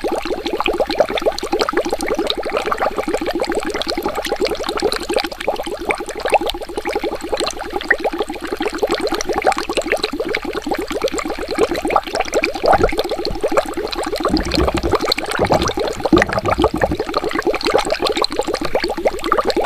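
Water bubbling: a continuous, dense stream of small bubbles popping many times a second, with a brief low rumble about two-thirds of the way through.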